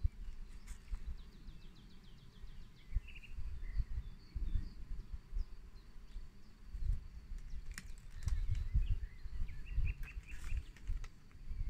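Small birds chirping, with a quick trill of repeated notes about a second in and more chirps later, over a gusty low rumble of wind on the microphone.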